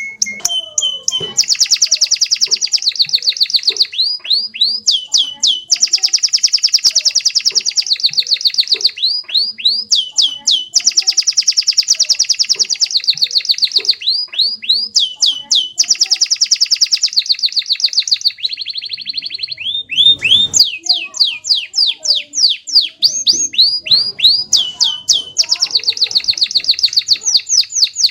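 Domestic canary singing long rolling trills: very fast repeated notes held for several seconds at a time, broken up by runs of quick downward-sweeping whistles and brief pauses.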